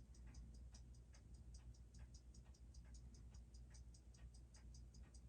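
Faint, steady ticking of a running Seiko 6R15 automatic watch movement, about six beats a second, over a low hum. The balance hairspring has just been reworked after earlier tampering, and the movement is settling in.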